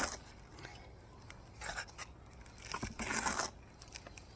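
A few short, gritty scrapes of mortar being worked into brick joints, the longest about three seconds in.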